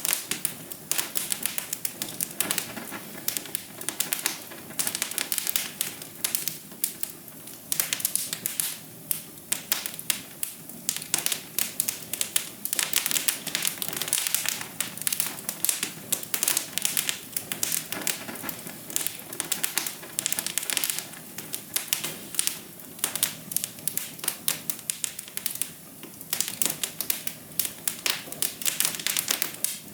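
Wood fire crackling in a fireplace: dense, irregular pops and snaps over a soft hiss.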